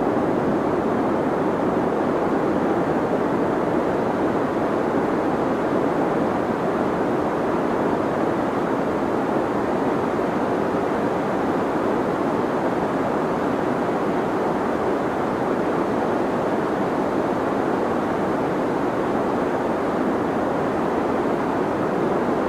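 Steady deep white noise for sleep: an even, unchanging hiss weighted toward the low and middle range, with the highs rolled off.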